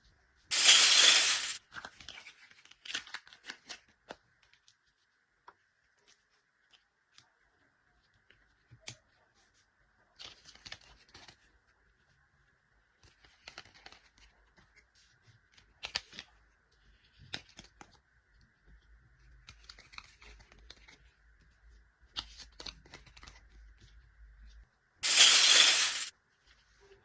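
Two loud rips of packaging being torn, each about a second long, one near the start and one near the end. Between them come light clicks and rustling as small plastic toy kitchen pieces and wrapping are handled.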